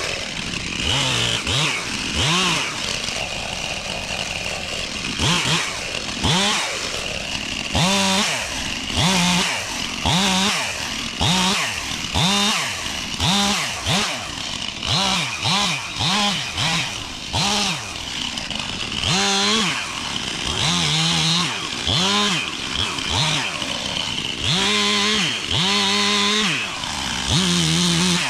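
Gas chainsaw revving up and down over and over, its engine pitch rising and falling about once a second.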